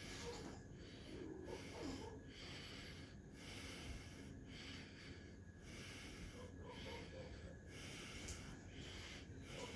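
Faint, rhythmic, wheezy breathing close to the microphone, about one noisy breath a second.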